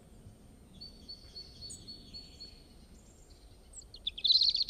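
Birds chirping over faint outdoor background noise: a run of short, evenly spaced high calls, then a louder burst of rapid chirps near the end.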